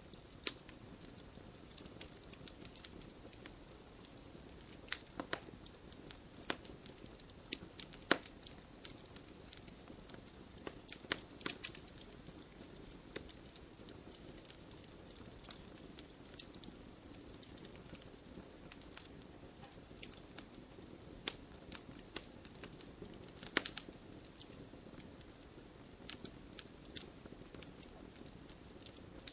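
Wood fire in a fireplace crackling, with irregular sharp pops and snaps over a soft steady hiss of flames. Several louder pops come about 8, 11 and 23 seconds in.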